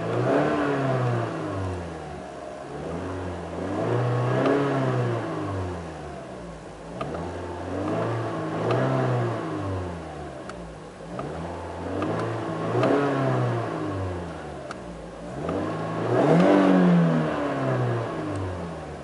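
2008 Toyota Corolla's four-cylinder engine revved five times, about every four seconds. Each time the pitch rises and falls back toward idle, and the last rev is the highest and loudest.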